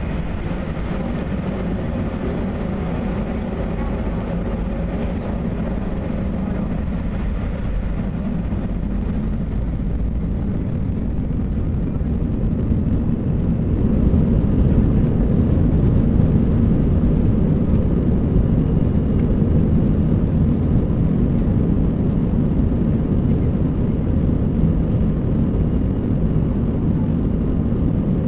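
Airbus A320 jet noise: a steady low rumble of engines and airframe that grows louder about halfway through, then holds.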